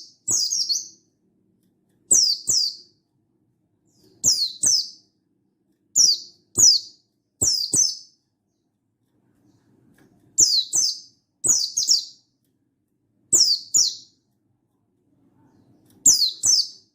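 Buxtoni white-eye (pleci buxtoni) calling: short, sharp, high notes that sweep downward, mostly in pairs, one pair every second or two, with a longer pause about halfway through.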